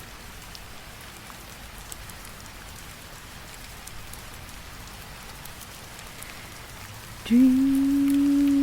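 A recorded rain sound effect: an even, steady patter of rain. About seven seconds in, a woman's voice starts a long, held sung note that wavers into vibrato near the end.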